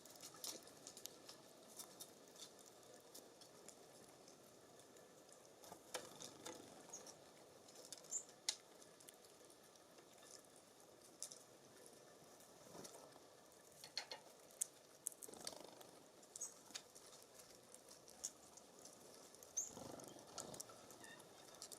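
Scattered light taps and clicks of animals feeding at a seed feeding station, with a few faint, short high bird chirps.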